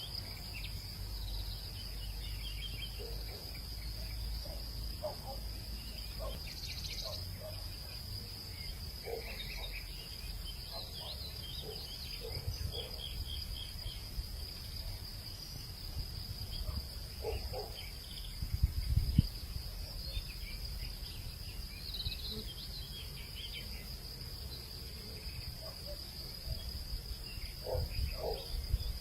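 Hillside evening soundscape: insects trill steadily on one high pitch, with scattered short bird chirps and calls over a low rumble. A brief low thump comes a little past halfway.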